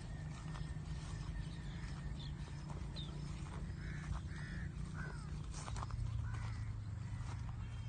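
Birds calling: a handful of short calls that rise and fall, most of them between about four and six and a half seconds in, over a steady low rumble.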